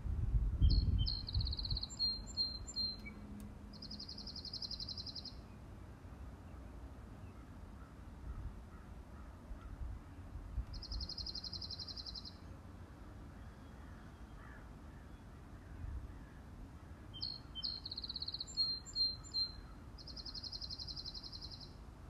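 A songbird singing in the garden: groups of short high notes followed by a fast, even trill, three phrases spaced several seconds apart. A brief low rumble near the start.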